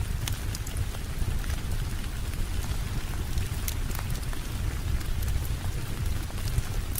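Steady rain with a deep rumble underneath, and scattered sharp crackles and pops of a wood fire.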